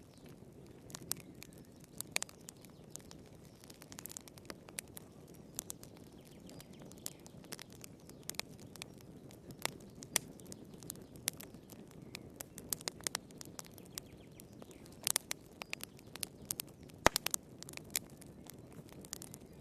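Wood fire crackling in a fireplace: irregular sharp pops and snaps over a low, steady rumble of flames, with a cluster of snaps and then a single louder pop in the last few seconds.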